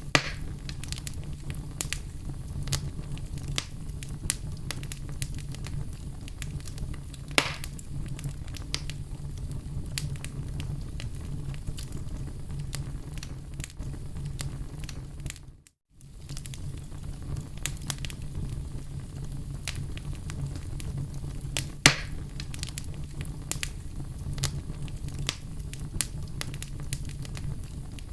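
Fire burning in a fireplace: a steady low rumble of flames with frequent small crackles and a few louder pops, the sharpest about two-thirds of the way through. The sound cuts out for a moment about halfway through, then resumes.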